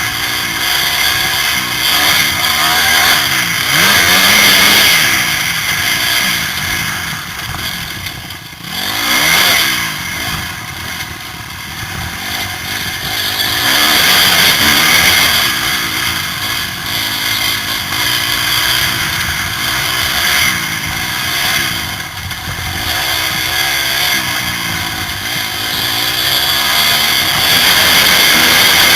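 Motocross motorcycle engine revving hard, its pitch rising and falling again and again as the bike is ridden around the track, with a dip about eight seconds in. Heard from the rider's helmet camera, with a loud rush of wind and air over the engine.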